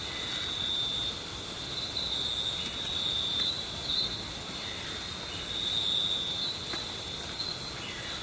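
Insects chirring in a steady high-pitched chorus that swells and fades every few seconds.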